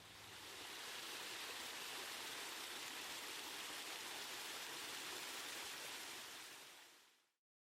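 A steady rushing hiss with no distinct events, fading in at the start and fading out to silence about seven seconds in.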